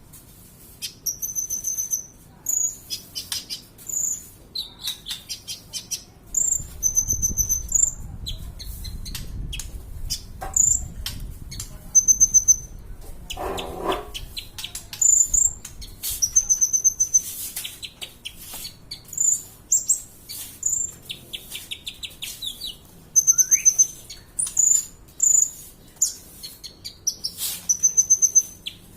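Kolibri ninja sunbird singing: a fast run of high, thin chirps and rattling trills in short repeated phrases, with brief pauses between them.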